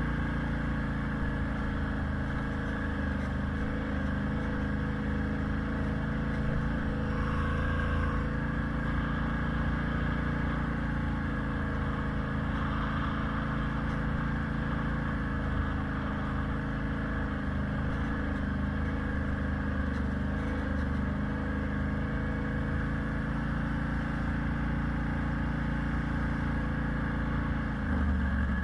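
A motor vehicle's engine running steadily at an even speed.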